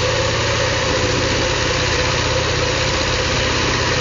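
Engine idling steadily at an even speed.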